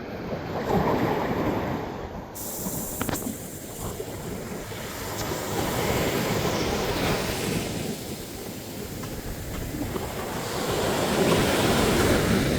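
Ocean surf breaking on the shore, the rush of water swelling and falling back about every five seconds.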